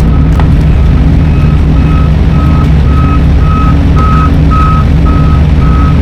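Reversing alarm beeping evenly, just under two beeps a second, growing louder toward the middle and then easing off a little, over the steady low rumble of a truck's diesel engine running.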